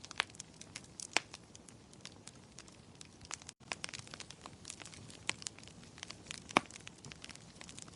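Fireplace fire crackling: irregular sharp pops and snaps of varying loudness over a soft low hiss, with a split-second dropout about three and a half seconds in.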